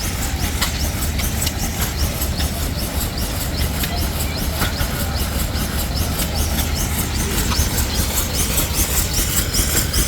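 Threshing machine running, belt-driven by a Waterloo gas engine: a steady low rumble under a fast, continuous clatter of rattling parts.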